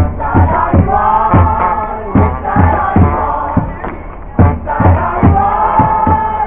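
Protest crowd chanting together in long held notes over a steady drumbeat of about two to three hits a second.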